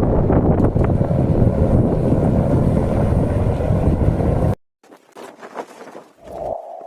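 Strong wind buffeting the microphone, a loud rushing noise that cuts off suddenly about four and a half seconds in, followed by quieter scattered sounds.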